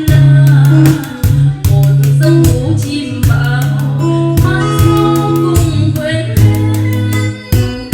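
Live bolero song: a singer with acoustic guitar accompaniment and steady bass notes.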